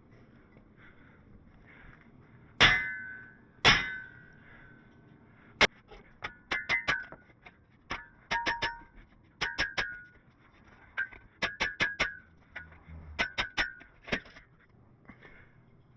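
Hammer blows on steel, driving a tapered square mandrel into a hot, buckled shop crane leg tube: two heavy strikes about three seconds in, then quick groups of three or four ringing hits.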